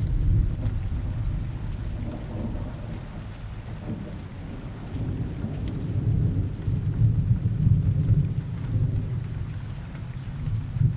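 Steady rain with rolling thunder: a low rumble that eases off early and swells up again about six seconds in before fading.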